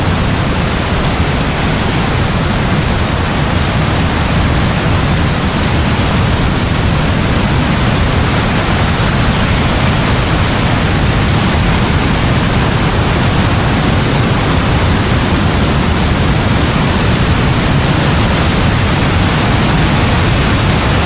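Heavy rain pouring down in a dense, steady hiss, with no thunder.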